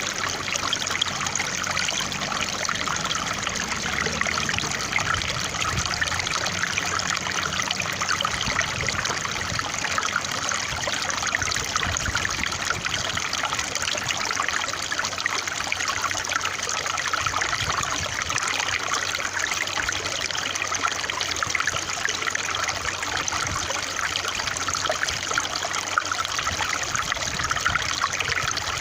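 Water trickling and splashing steadily, an even, bright rush of running water with fine sparkling detail and no change throughout.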